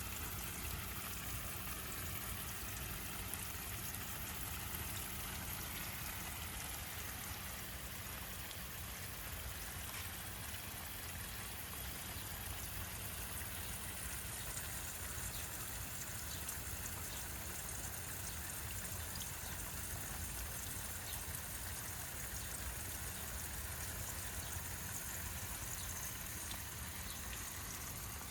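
Steady outdoor background noise: an even hiss with a low rumble underneath and a few faint ticks, with no distinct events.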